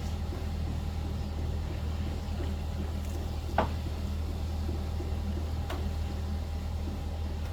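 An engine or motor running steadily with a low hum, and one sharp click about three and a half seconds in.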